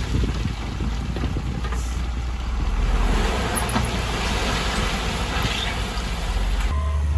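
Heavy diesel construction machinery running, a steady low engine rumble with mechanical clatter; near the end it changes abruptly to a different, smoother engine drone.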